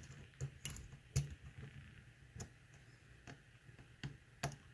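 Faint, irregular clicks of a hook pick working the pins of a pin-tumbler lock one by one, some clicks sharper than others as pins are lifted and set.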